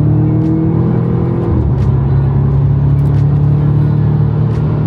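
Audi RS5's 4.2-litre V8 pulling under acceleration, heard from inside the cabin: the engine note climbs slowly, drops off abruptly about a second and a half in, then settles into a steady low drone.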